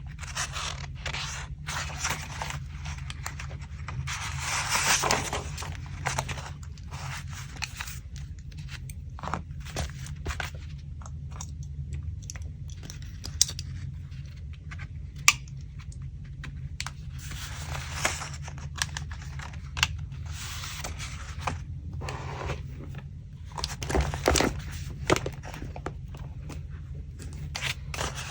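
Paper being handled close to the microphone for a collage: bursts of rustling, scraping and tearing, with a few sharp taps, over a low steady hum.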